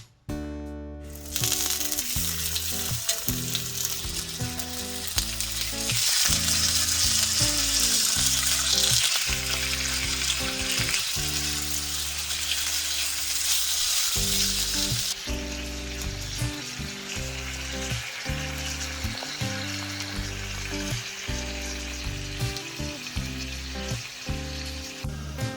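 Food sizzling as it fries, starting about a second in and loudest for a stretch in the middle, over background music.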